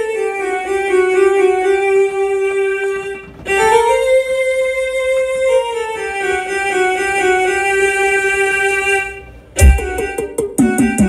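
Music played loud through a car sound system: a held, string-like melody line that pauses briefly. A heavy bass hit comes near the end, and a fast repeating beat starts after it.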